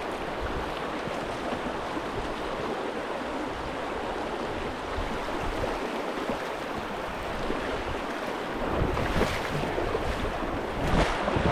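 Fast-flowing river water rushing steadily, with louder swells of water noise twice near the end.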